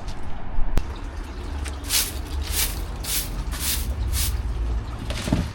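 Stiff broom (walis tingting) sweeping dead leaves in regular scratchy strokes, about two a second, over a steady low rumble.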